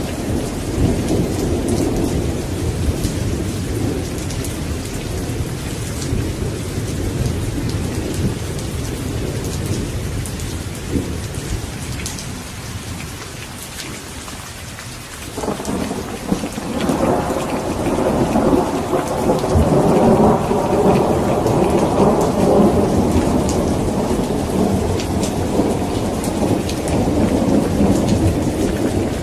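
Steady rain falling, with rolling thunder: one rumble fades out, then a new peal starts suddenly about halfway through and swells into a long, louder rumble.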